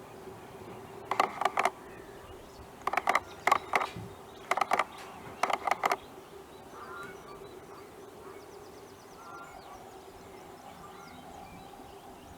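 A duck quacking: four quick runs of three or four loud, short calls in the first six seconds, followed by faint, scattered bird calls.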